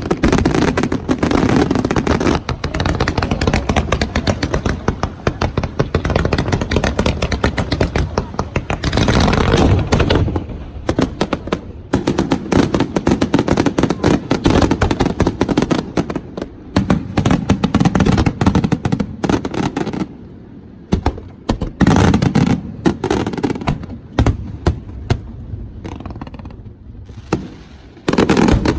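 Aerial fireworks display: rapid volleys of bangs and crackling, thinning out after about twenty seconds to scattered single bursts with a couple of loud booms near the end.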